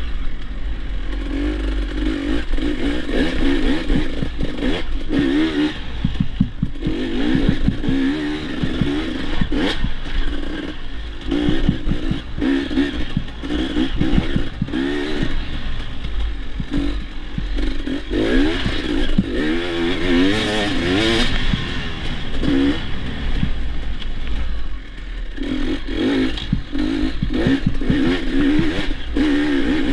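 Dirt bike engine being ridden hard, its pitch repeatedly rising and falling as the throttle opens and closes, with frequent clattering knocks from the bike over rough ground and a constant low wind rumble on the microphone.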